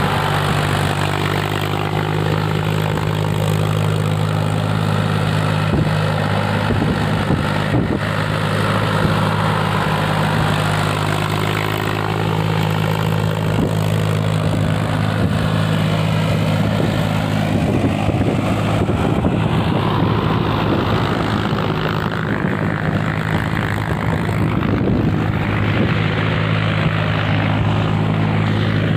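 Mahindra 275 Bhoomiputra tractor's three-cylinder diesel engine running at a steady speed while driving a rotovator, a constant low drone with a rough mechanical clatter over it.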